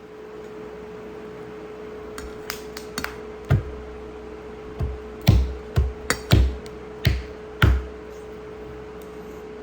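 A run of about nine sharp knocks and thuds, irregularly spaced, over a steady hum.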